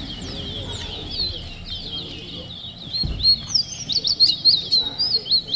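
Caged songbird singing a fast string of high chirps and whistled notes that grows louder and denser in the second half: a song in a bird-song race, counted between the judge's calls. A low thud comes about halfway through.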